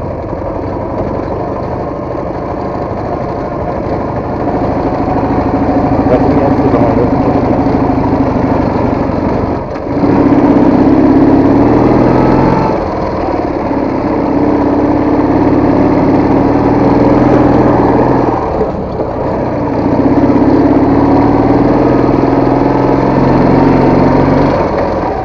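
Motorcycle engine running under load while riding, its pitch rising and holding as it is revved. The engine sound drops off briefly about ten seconds in and again a little before twenty seconds, then picks up again.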